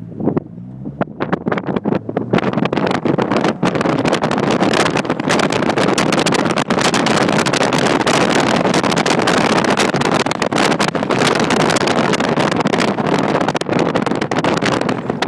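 Car with a MagnaFlow exhaust and 2.25-inch straight-pipe catback running loud and rough, with wind buffeting the microphone. The sound jumps up sharply just after the start and stays loud throughout.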